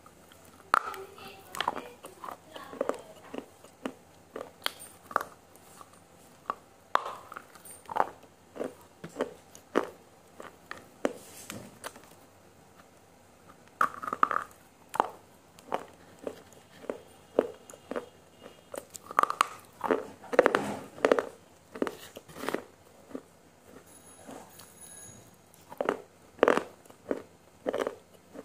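A person chewing a mouthful of spicy noodles: an irregular string of short mouth clicks and smacks, a few each second.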